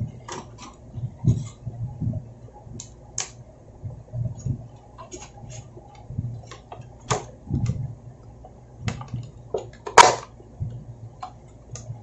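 Scattered light clicks and soft knocks of small computer hardware being handled, with one sharper click about ten seconds in.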